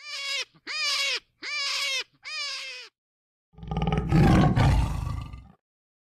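Four short, high-pitched squealing calls, then a tiger roaring once for about two seconds, the loudest sound.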